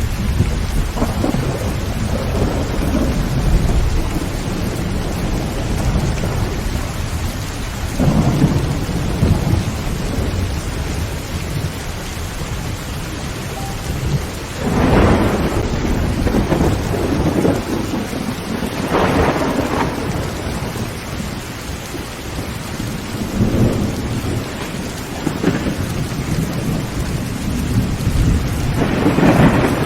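Heavy rain falling steadily on a tin roof under continuous low thunder rumble, with several louder thunder peals swelling and fading: one about halfway through, another a few seconds later, and a strong one near the end.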